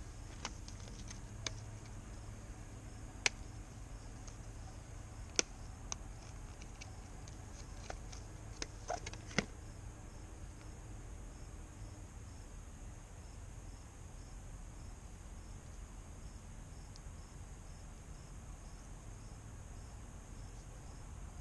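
Scattered sharp clicks and knocks, most of them in the first half, over a faint steady high-pitched insect drone and a low rumble.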